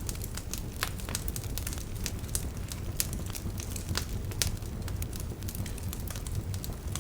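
Wood fire burning in a fireplace: a steady low rumble of the flames with irregular sharp crackles and pops from the logs, several a second.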